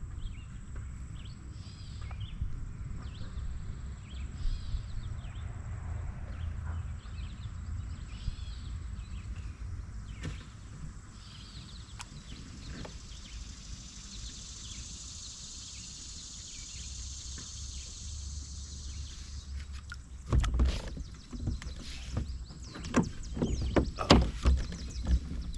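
Low rumbling outdoor noise around a kayak on open water, with faint bird chirps. A run of sharp knocks and thumps starts about twenty seconds in.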